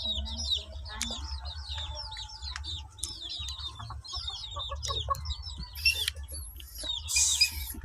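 Birds chirping over and over in short high calls, with a low steady rumble underneath and a brief rustle near the end.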